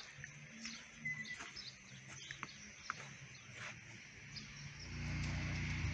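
Faint outdoor quiet with scattered short bird chirps. Near the end a steady low motor hum starts abruptly.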